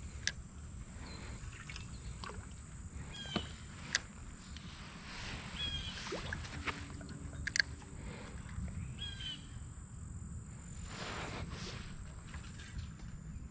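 Outdoor pond ambience: a low rumble of wind on the microphone, a handful of sharp clicks and knocks, a few short high bird chirps, and a thin, steady, high insect drone.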